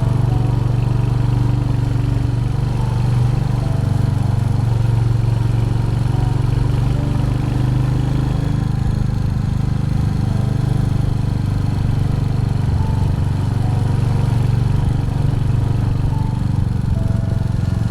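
Royal Enfield Hunter 350's single-cylinder engine running steadily as the motorcycle is ridden, with an even low drone.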